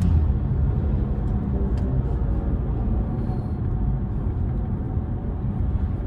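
Steady low rumble of road and tyre noise inside the cabin of an electric BMW driving at speed.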